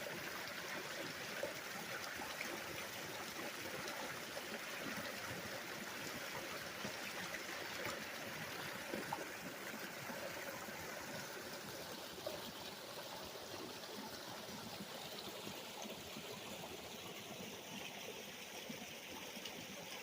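Small stream running steadily, a continuous babble of flowing water with scattered small splashes and trickles.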